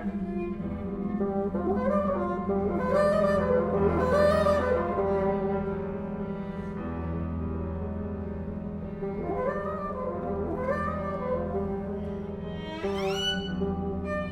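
Contemporary chamber music for solo bassoon and ensemble (flute, clarinet, harp, piano, violin, viola, cello): sustained low notes beneath wavering melodic figures, with a fast upward glide about 13 seconds in.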